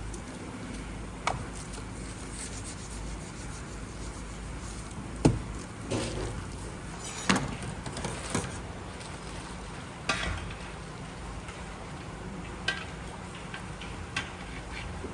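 Kitchen work at a snack-bar counter: scattered knocks and scrapes of utensils against pots, pans and dishes over a steady background hum, the loudest knock about five seconds in.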